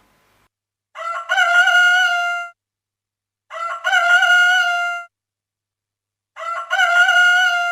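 A rooster-style cock-a-doodle-doo crow, heard three times, each about a second and a half long with silence between.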